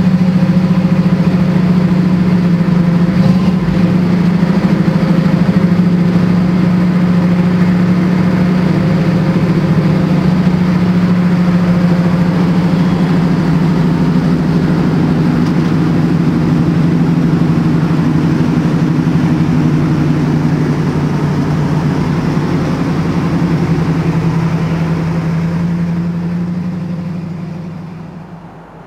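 A 1969 Camaro SS 396's big-block V8 running with a steady, deep note, fading away near the end.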